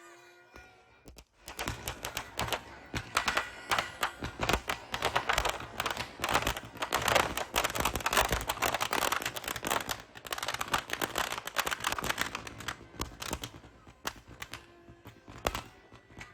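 Firecrackers bursting in a fast, dense crackle. It starts about a second in, is thickest in the middle and thins to scattered pops near the end.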